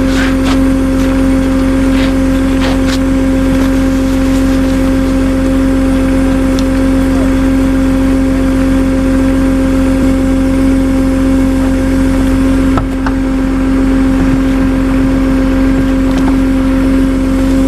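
A vehicle engine running steadily with a constant droning hum, with a few light knocks in the first few seconds.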